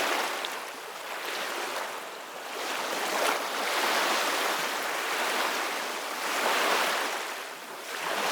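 Ocean waves breaking and washing on the shore, the surf swelling and ebbing every two to three seconds.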